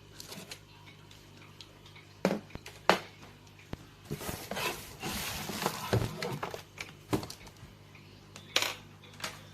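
A few sharp clicks and knocks of objects being handled, with a busier stretch of rustling and clatter in the middle, over a faint steady hum. The vacuum is not running.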